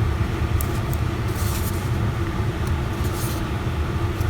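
Steady low background rumble, with a few faint light clicks and short hisses on top.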